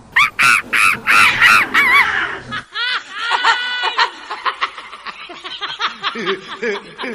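High-pitched comic sound-effect voice: a quick run of cackling, laugh-like calls for about two seconds, then a long, fast string of short squeaky chirps.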